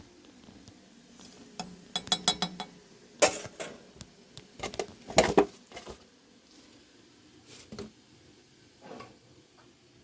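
Dishes and utensils clinking and clattering in a quick series of sharp knocks, densest from about a second and a half to six seconds in, then a few lighter clinks.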